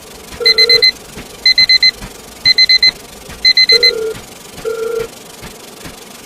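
Digital alarm clock beeping in groups of four quick, high beeps about once a second, with four groups before it stops about four seconds in. A separate lower beep sounds three times alongside.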